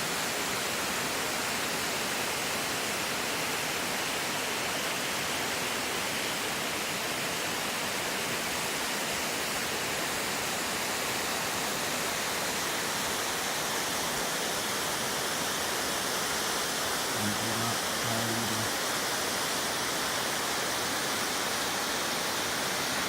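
Shirahige Falls pouring steadily, an even rushing noise of falling water. A brief low hum sounds for about a second and a half about three quarters of the way through.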